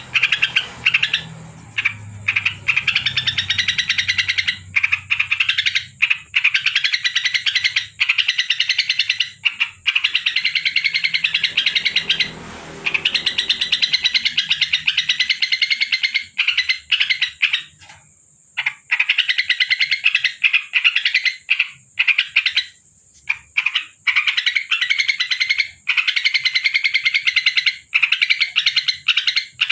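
Trucuk (yellow-vented bulbul) singing in long runs of fast, rattling chatter, broken by short pauses.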